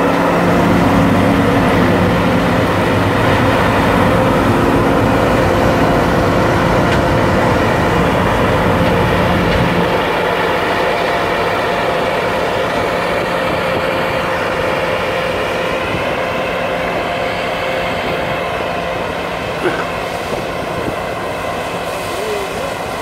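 John Deere diesel engine running steadily with its Flexxaire fan and the machinery it drives. The low hum eases about ten seconds in, and a higher whine rises a little past the middle.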